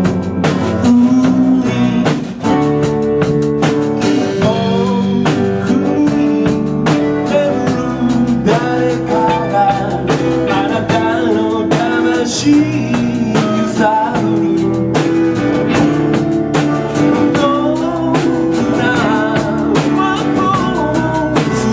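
Live band playing a song, with guitar and drum kit keeping a steady beat and a voice singing.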